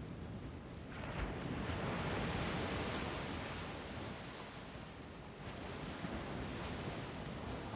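Strong wind rushing and buffeting the microphone as a steady roar that swells about a second in and eases off around five seconds.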